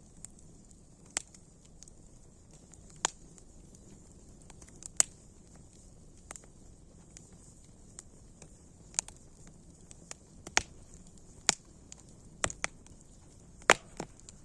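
Wood burning in a campfire, crackling with irregular sharp pops over a faint steady hiss.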